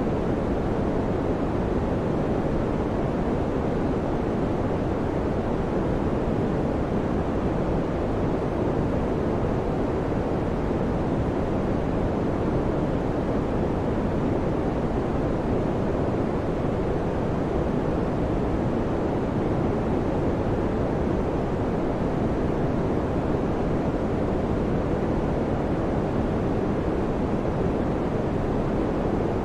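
Electric fan running: a steady, even rushing noise, deep and low-pitched, that does not change.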